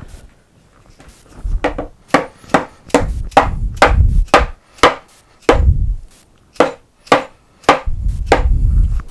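Wooden panels being knocked apart: about fifteen sharp knocks on wood at an uneven pace, starting about a second and a half in, with heavier dull thumps in between.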